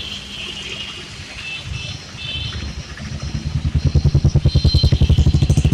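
Road traffic: a vehicle engine running with a rapid low throb that grows much louder about halfway through.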